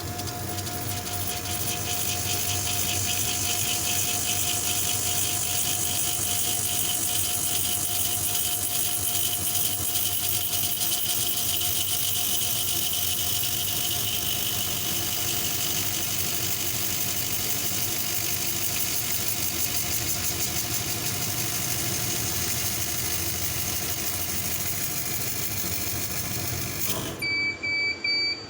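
Laser cutting and engraving machine running: a steady loud hiss of fans and motion with a faint steady whine, which cuts off suddenly about 27 seconds in. A few short beeps follow.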